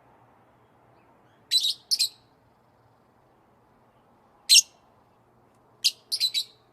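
A songbird chirping: short sharp chirps, a pair at about a second and a half, a single one past the middle, and a quick run of three or four near the end, with silent gaps between.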